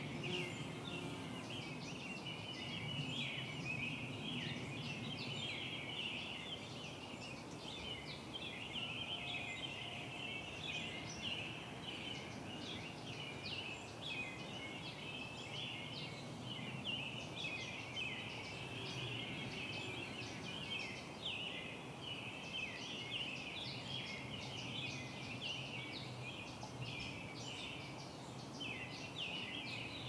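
Birds chirping: a continuous, busy chatter of many short, rapid high-pitched notes, with a faint low rumble underneath.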